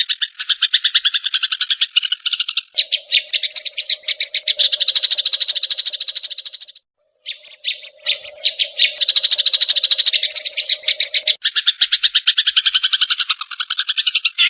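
Sparrows chattering fast and excitedly in the harsh, agitated calling of fighting birds: a rapid, continuous stream of sharp chirps, many each second. A lower buzzy note runs underneath through the middle, and the chatter breaks off for a moment about seven seconds in.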